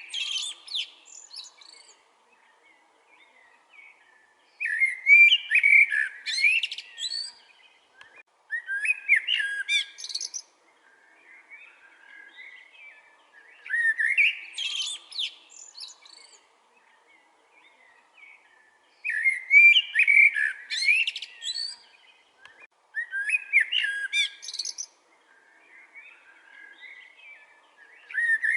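A songbird singing the same short warbled phrase again and again. Each phrase lasts about two seconds, with a pause of two to three seconds between them.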